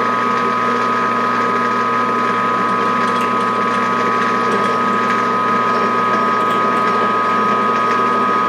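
Metal lathe running steadily with a gear whine while a 3/8 drill is fed into the end of the part and backed out to clear chips.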